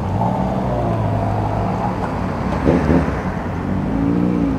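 Suzuki Bandit motorcycle engine running steadily under way, over a steady rush of wind and road noise. Its note wavers briefly about three seconds in and rises and falls near the end.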